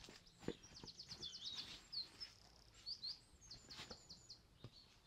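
Faint birdsong: a small songbird's fast high trills and short whistled notes, with a few soft knocks mixed in.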